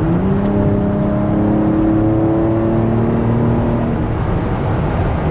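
BMW X3 M Competition's twin-turbo S58 inline-six pulling hard under full throttle, heard from inside the cabin: the engine note climbs steadily for about four seconds, then drops away, over steady road noise.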